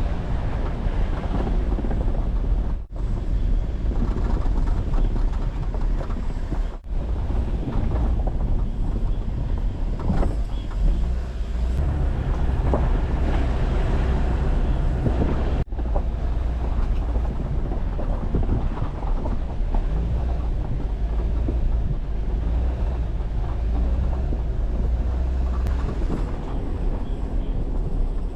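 Jeep Wrangler driving along an unpaved forest road: steady engine and tyre noise with a strong low rumble, broken three times by very short dropouts.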